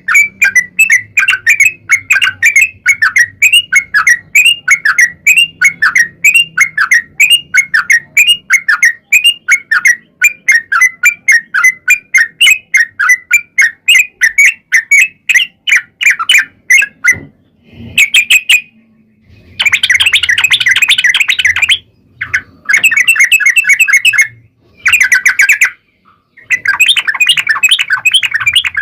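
Yellow-vented bulbul (trucuk) song: a long run of quick, repeated chirping notes, about three a second, for around seventeen seconds. Then come several dense, rolling bursts of chattering song separated by short silences.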